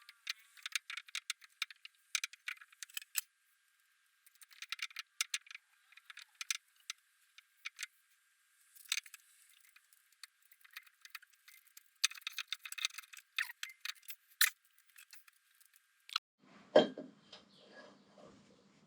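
Small metal engine parts and tools clinking and rattling in irregular clusters of light clicks as they are handled. There is a louder knock near the end.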